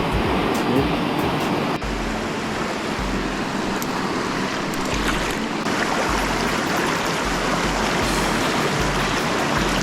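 Steady rush of a swollen river's current running past.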